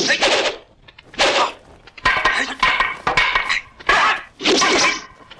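Fight-scene sound effects: a quick run of about seven swings and clashing strikes of weapons, some with a short metallic clink or ring.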